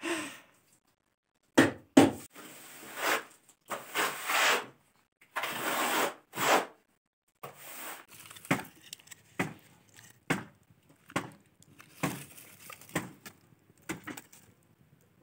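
Ceramic tiles being handled and laid out. Two sharp knocks come first, then several longer scrapes as tiles are slid, then a run of lighter, irregular clicks as they are set down against each other.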